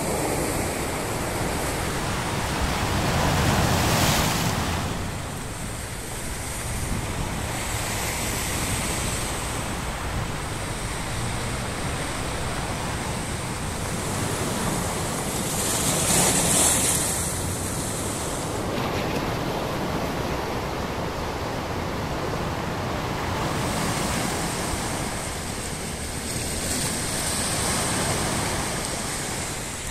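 Sea surf breaking and washing up the shore in a continuous rush, swelling into louder breakers three times.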